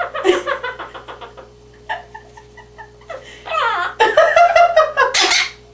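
Quaker parrot chattering and giggling, with a short whistle-like note in the middle and a falling call, then louder calls near the end.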